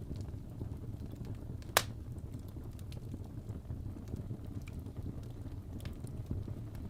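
Fireplace crackling over a steady low rumble, with scattered small crackles and one sharp, loud pop about two seconds in.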